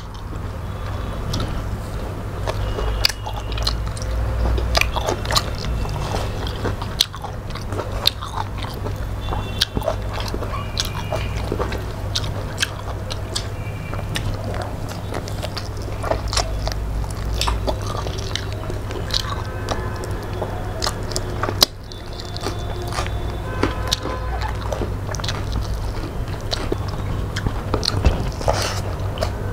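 Close-up chewing and mouth sounds of people eating mouthfuls of rice and fish curry by hand, with many short wet clicks and smacks. A steady low hum runs underneath.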